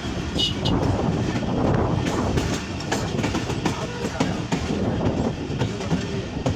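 Passenger train coach running at speed, heard from its open doorway: a steady rumble with the wheels clicking sharply and irregularly over rail joints and points.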